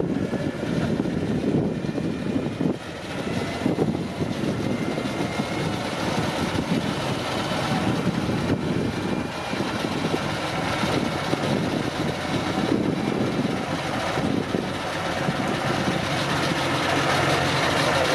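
Heavy off-road truck engine running under load, a steady, continuous sound.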